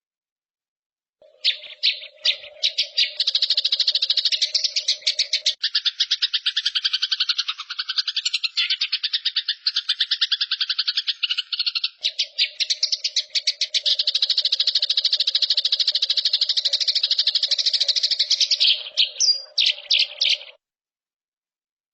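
A songbird's fast, continuous trilled song for masteran training: rapid high notes repeated many times a second for nearly twenty seconds. It starts about a second in and cuts off suddenly near the end, with a low hum under its first and last parts.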